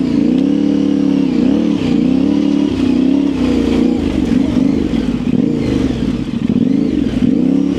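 Yamaha Ténéré 700's parallel-twin engine being ridden, its pitch rising and falling repeatedly as the throttle is opened and closed.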